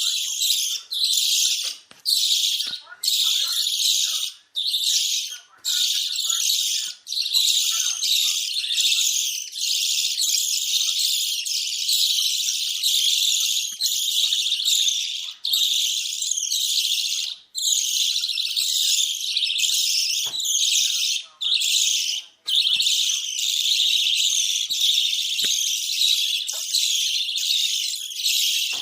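A flock of budgerigars chattering and warbling without let-up, a dense run of high chirps broken only by brief gaps. This is the kind of budgie chatter played to bring female budgies into breeding condition.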